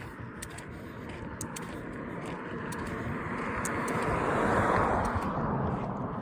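A car passing by on the road, its tyre and engine noise swelling to a peak about four to five seconds in and then fading away.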